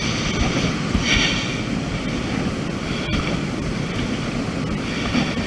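Wind buffeting a handheld camera's microphone on an exposed climb: a steady, noisy rush with a brief brighter swell about a second in.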